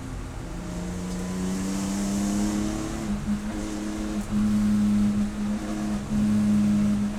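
Race car engine running hard under load, its pitch climbing slowly, then broken by brief dips and jumps in pitch several times in the last few seconds.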